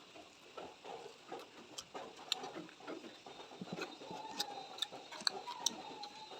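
Close-miked chewing and wet mouth sounds of someone eating, with many sharp little clicks and crunches at an uneven pace.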